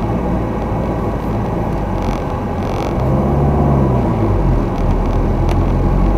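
Car engine and road rumble heard from inside the cabin while driving slowly in traffic, the engine note rising and then falling again partway through.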